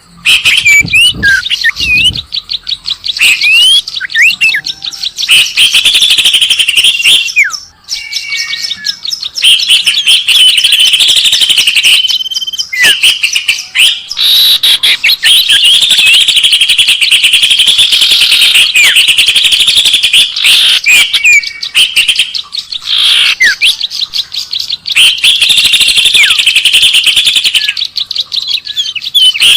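Recorded songbird lure call: loud, rapid chirping and trilling in bursts of several seconds with brief breaks, mixed with short rising whistles.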